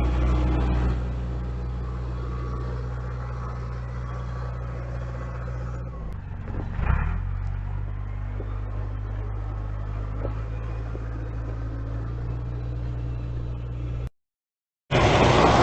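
Heavy diesel engine of a dump truck running steadily at low revs, with a brief louder sound about seven seconds in. The sound cuts off near the end and a louder, noisier sound follows.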